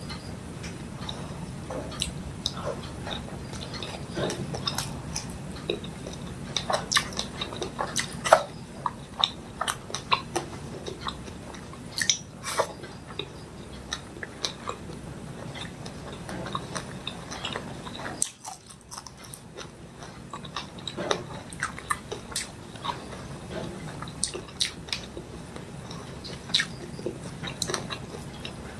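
Close-miked chewing and lip-smacking of a mouthful of fish curry and rice, with many irregular sharp wet clicks from the mouth; the sound drops briefly about two-thirds of the way through.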